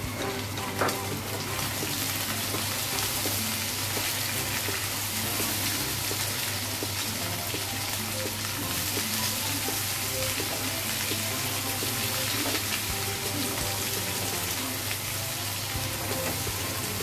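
Sliced onions and beef pieces sizzling steadily in hot oil in a nonstick kadai as they are stirred with a wooden spatula; one knock of the spatula on the pan about a second in.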